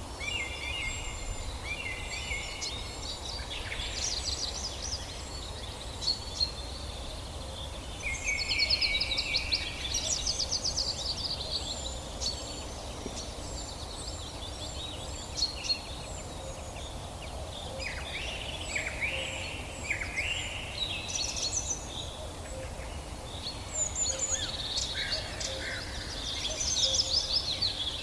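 Several songbirds singing and calling together in a forest chorus, with trills, rapid chirp series and short downward-swept notes overlapping throughout. A steady low background hiss runs beneath them.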